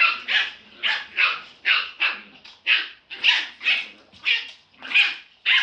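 Small dogs barking during a play fight: a dozen or so short, sharp, high-pitched barks, about two a second.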